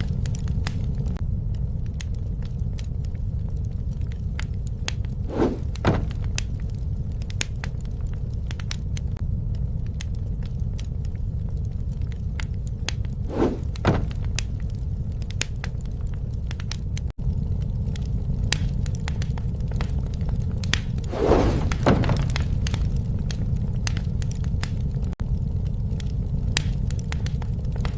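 Wood fire crackling, with many sharp pops over a steady low rumble of the flames and a few brief louder puffs of flame.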